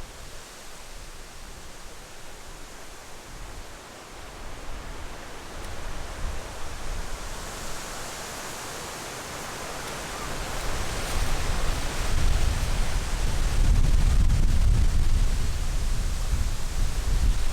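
Strong wind blowing steadily with a rushing hiss, then heavier gusts buffeting the microphone with a low rumble from about twelve seconds in.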